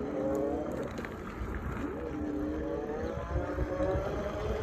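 Wind rumbling on the microphone during a bicycle ride, with a wavering tone that glides slowly up and down over it.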